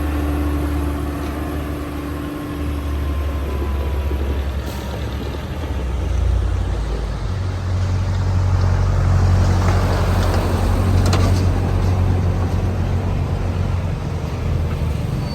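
Large bulldozer's diesel engine running steadily, getting louder and working harder from about six seconds in.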